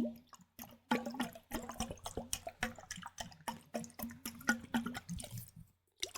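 Liquid sounds made close to a microphone: a quick, irregular run of small wet clicks, starting about a second in and stopping shortly before the end.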